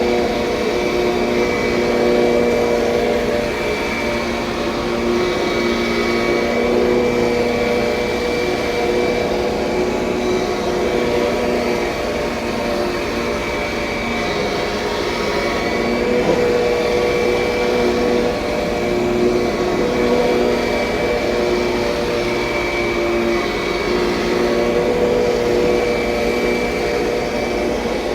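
A 2007 Kirby Sentria upright vacuum cleaner running steadily, its motor whine wavering a little in strength as it is pushed along.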